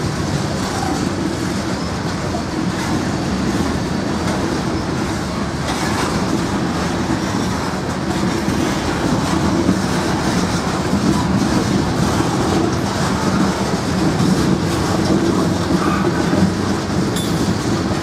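Norfolk Southern freight train rolling past, its cars' wheels clacking over the rail joints in a steady, unbroken rumble.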